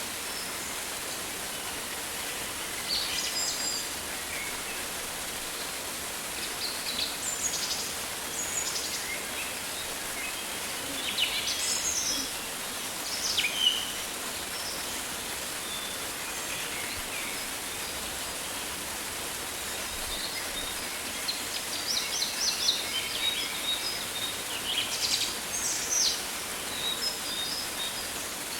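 Rainforest ambience: a steady hiss of rain with birds calling on and off in short chirps and quick falling notes, busiest in the second half.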